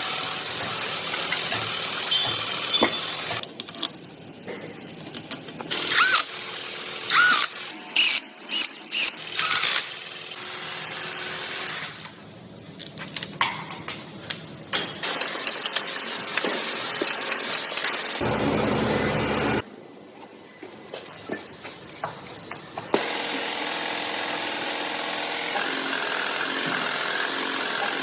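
Workshop assembly sounds: power tools running, with sharp metallic clicks and knocks and short whines in the middle, and a steady tool noise near the end.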